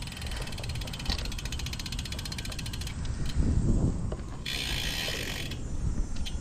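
Road bike's rear freehub ticking rapidly while coasting, stopping about three seconds in as pedalling resumes. Low wind and road rumble sits underneath, with a short hiss near the middle.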